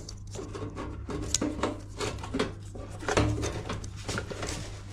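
Light clicks and knocks of hands working the plastic wiring connectors and their latch clips inside a washing machine, with a duller thud about three seconds in, over a steady low hum.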